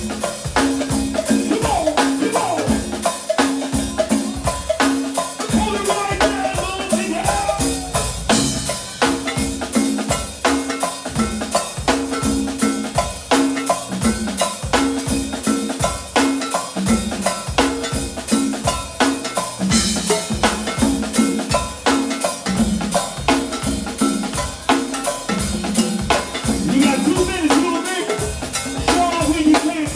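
A percussionist playing drums live: rapid snare and rimshot strokes with bass drum hits, over a repeating low pitched figure.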